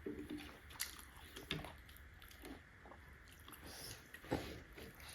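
A person chewing buff momo dumplings close to the microphone: soft, wet mouth sounds with scattered small clicks and smacks.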